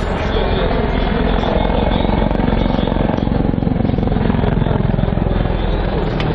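Military helicopter with VK-2500 turboshaft engines flying a display: steady, loud rotor chop over the whine of the turbines.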